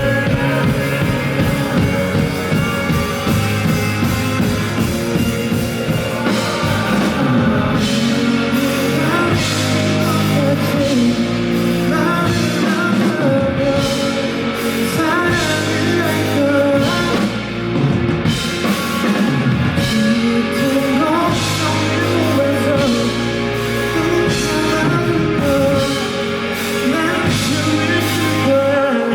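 Live rock band playing loudly: drum kit, electric guitars and bass, with singing over it.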